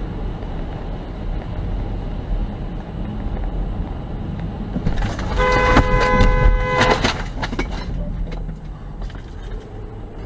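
A car horn sounds once for about a second and a half, about halfway through, over a steady low rumble of road and engine noise from a moving car.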